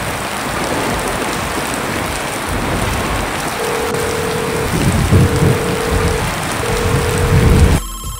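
Steady rain sound effect. From about halfway through, a phone rings in three long, even-pitched tones. The rain cuts off abruptly just before the end.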